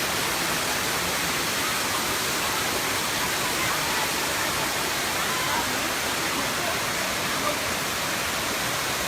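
Steady rush of water falling over the cascade of the seventh tier of Erawan Falls, an even, unbroken roar of noise.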